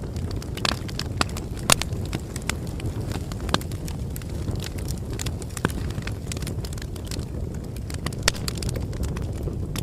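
Bonfire burning: a steady low rush of flames with irregular sharp crackles and pops of burning wood, a few louder pops scattered through.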